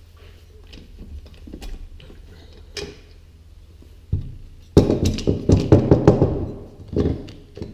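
Knocks and clatter of small engine parts being handled, with a thump about four seconds in and then a loud burst of irregular knocking and rattling that lasts a couple of seconds.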